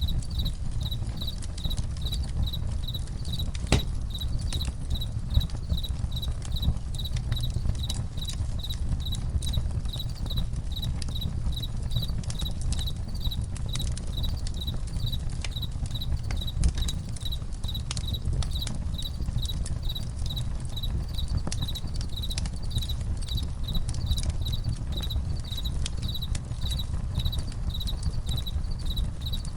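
Crickets chirping in a steady, even rhythm over a campfire crackling with scattered pops and a low rumble.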